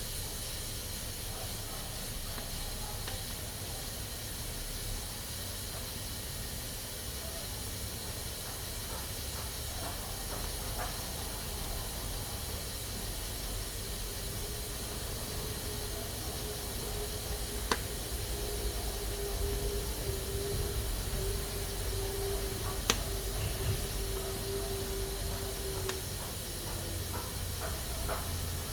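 Pressure cooker hissing steadily as steam escapes from its valve, with a faint steady tone joining in from about halfway and fading out near the end. Two sharp clicks stand out, one a little past halfway and another later on.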